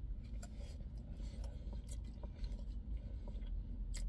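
Close-up chewing of a bacon burger: soft crunches and small mouth clicks scattered through, over a low steady rumble.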